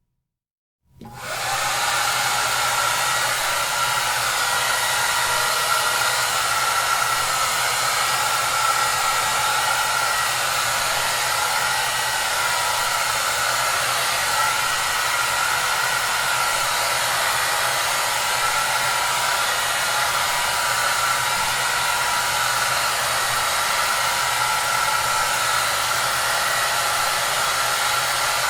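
Hair dryer starting up after a second of silence, then running steadily with an even whooshing noise over a low hum and a faint whine.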